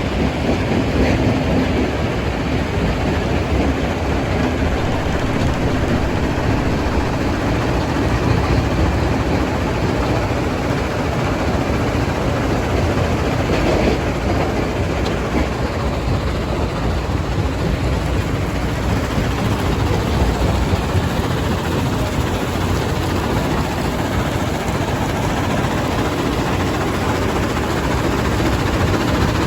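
Heavy diesel machinery and rock-crushing plant running steadily, a dense continuous din with no pauses.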